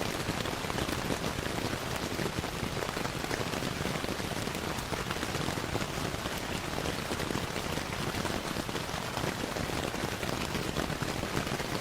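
Steady rainfall mixed with a crackling fireplace fire: an even rushing hiss with many small sharp crackles and drips scattered through it.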